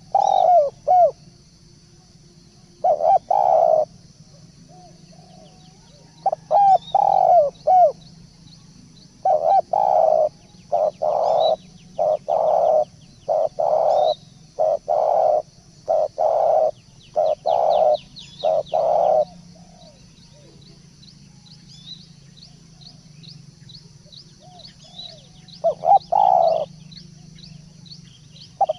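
A turtledove cooing in repeated phrases. Each note rises and falls in pitch. A long run of about a dozen coos, roughly one a second, fills the middle, and the bird falls quiet for several seconds before a final short phrase near the end. Faint high chirps from small birds and a low steady hum lie underneath.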